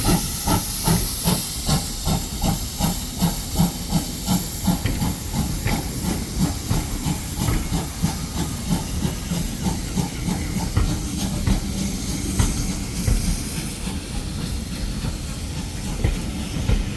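GWR pannier tank 9466 pulling away under steam: regular chuffing exhaust beats with steam hiss, about three beats a second. About ten seconds in, the beats grow fainter and blur into a steady hiss.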